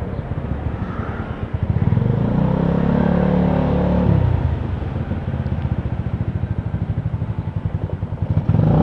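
Motorcycle engine running, with the engine note standing out for a couple of seconds and then settling into a steady pulsing beat.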